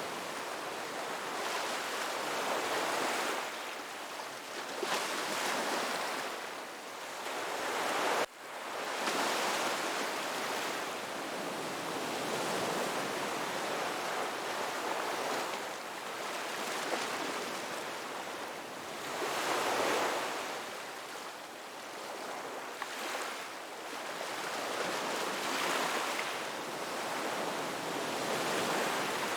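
Ocean waves washing onto a beach, the surf swelling and falling back every few seconds, with one brief sudden dropout about eight seconds in.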